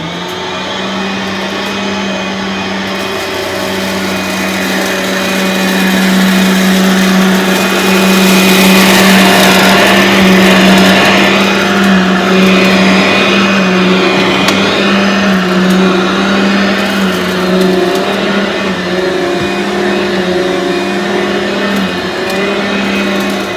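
Aeros upright vacuum cleaner switched on and running with a steady motor hum and whine, growing louder toward the middle and then easing slightly as it is pushed around.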